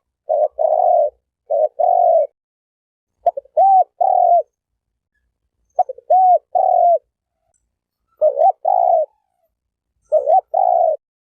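Spotted dove (terkukur turtle dove) cooing: about six phrases, each a short lead-in note or two and then longer coos, repeated every couple of seconds with short pauses between them.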